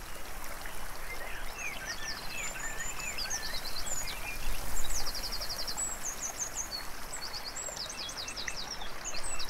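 Several songbirds singing at once, with quick high trills and short chirps, over a steady rushing background hiss.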